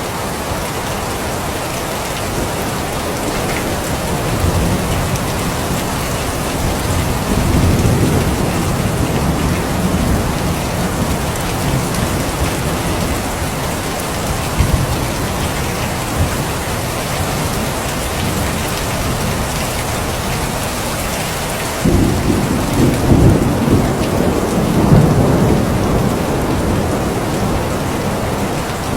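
Steady rain falling, with thunder rolling underneath: a long low rumble from about four seconds in, and a sudden crack about twenty-two seconds in that rumbles on for several seconds.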